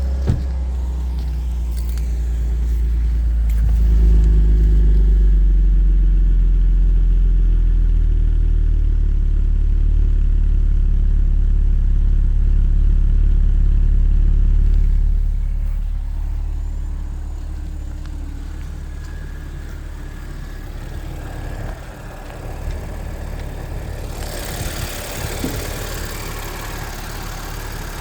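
2011 Audi S4's supercharged 3.0-litre V6 running at idle shortly after a cold start. The deep engine sound is loudest for the first half and grows quieter about fifteen seconds in. A hissier, higher sound comes in near the end.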